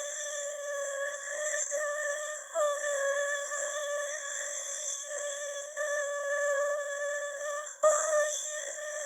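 Synthetic AI voice babbling gibberish on a nearly flat, high, hum-like pitch, with small pitch wobbles and short breaks between sounds. About eight seconds in it drops out for an instant and comes back with a sudden loud jump.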